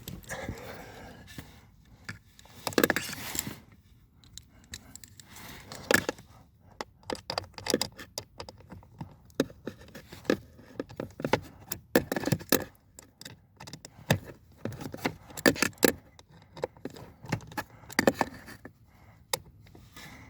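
Irregular clicks, knocks and short scrapes of hand tools and plastic parts being handled during work on a car's HVAC temperature flap motor, with small metal jingles like keys or tool bits.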